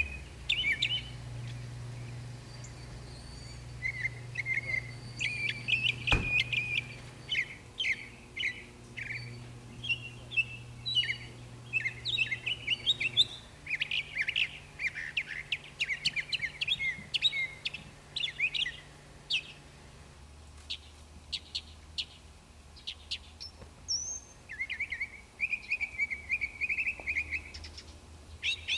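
Songbirds chirping and trilling, many short calls one after another, over a low steady hum. A single sharp click about six seconds in.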